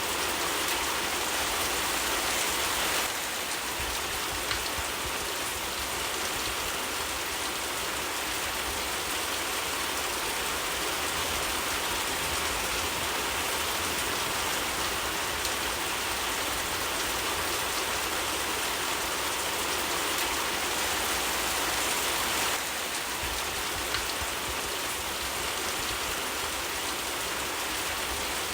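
Steady rainfall, a dense even hiss of drops, with a faint pop or two.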